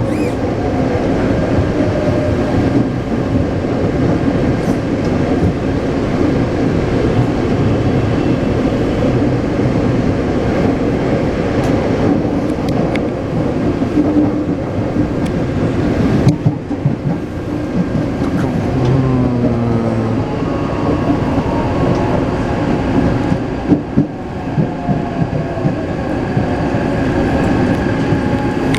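Onboard sound of a Taipei Metro C381 train running, with steady wheel and running noise. The traction motor whine shifts in pitch in steps about two-thirds of the way in, then rises steadily toward the end as the train picks up speed.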